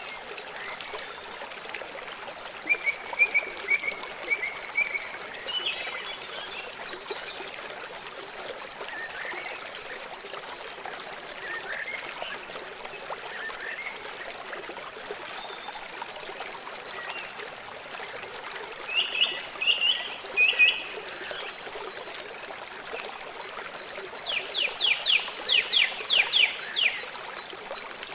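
Forest stream trickling steadily, with songbirds chirping over it now and then; a fast trill of about ten quick notes near the end.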